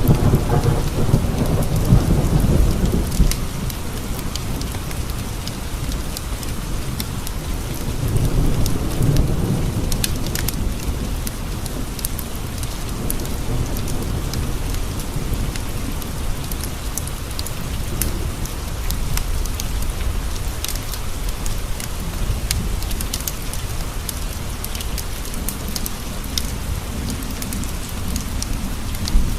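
Steady rain on a window with scattered sharp ticks, and rolling thunder rumbling low in the first few seconds and again about eight seconds in.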